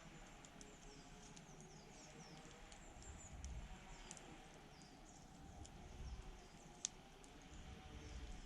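Wood campfire crackling faintly, with scattered small clicks and one sharp pop near the end. Many short, high, thin falling chirps run through it.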